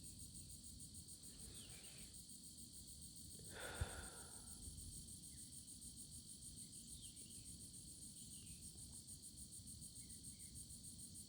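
Crickets chirring steadily, a faint high-pitched trill pulsing rapidly and evenly. About four seconds in comes a short rustle with a sharp knock.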